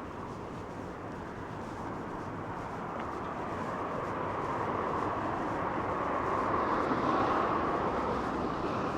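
A vehicle passing by: a rushing noise that builds over several seconds, is loudest about seven seconds in, then starts to fade.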